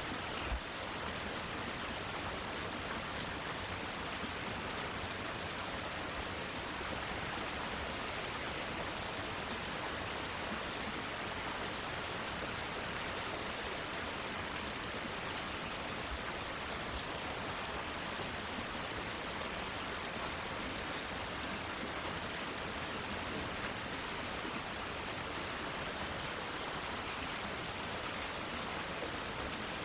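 Steady rain falling, an even hiss with no let-up. A single brief low thump about half a second in.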